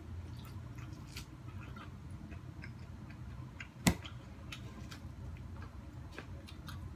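Scattered small clicks of a person biting and chewing kernels off an ear of boiled corn on the cob, with one sharper click a little under four seconds in, over a steady low hum.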